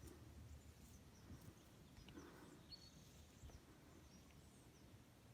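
Near silence: faint outdoor ambience, with a few faint high chirps.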